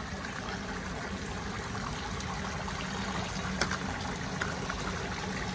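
Water trickling steadily in a toy water table, with a low steady hum underneath and one sharp click about three and a half seconds in.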